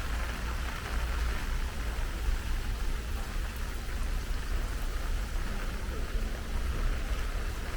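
Steady heavy rain falling, an even hiss with a low rumble underneath.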